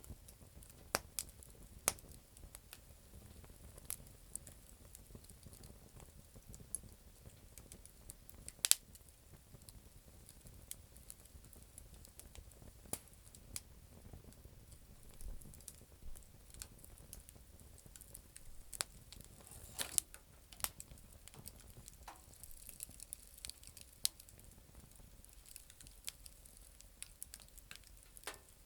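Campfire of damp firewood burning, with irregular sharp crackles and pops over a faint low hiss; one pop about nine seconds in is much louder than the rest.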